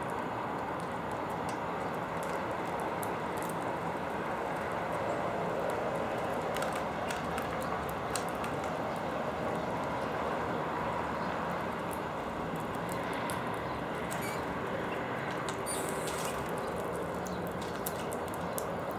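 Small birds pecking and scrabbling at seed on a balcony feeder, heard as scattered light clicks and taps over a steady background noise.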